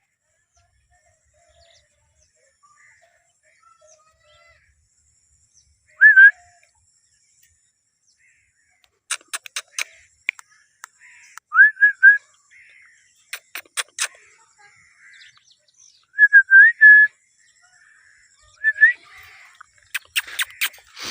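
Green ringneck parrot giving short whistled notes that bend quickly in pitch, singly or in twos and threes, with rapid runs of sharp clicks between them. The first whistle comes about six seconds in.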